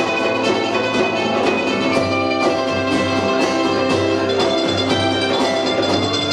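Punk band playing live: a dense, loud instrumental passage with sustained instrument chords over a pulsing bass line and steady drum hits, with no vocals.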